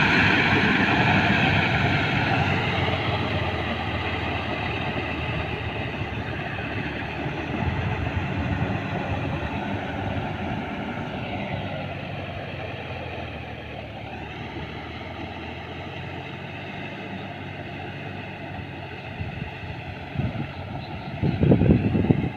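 Sonalika RX47 tractor's diesel engine running steadily while working a flooded paddy field, growing gradually fainter. A few loud low thumps come near the end.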